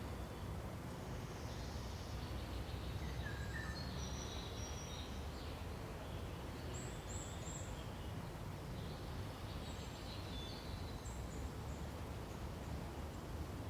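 Forest ambience: a steady low rush of wind in the pines, with scattered short bird chirps and high whistles calling now and then.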